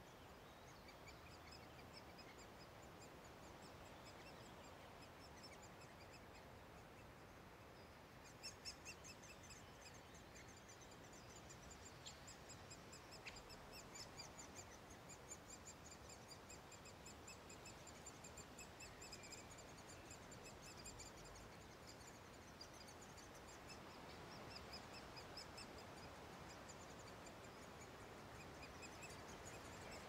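Faint, high-pitched bird calls: quick runs of short repeated notes that start about a quarter of the way in and go on to the end, over a quiet woodland hiss. Two faint clicks come near the middle.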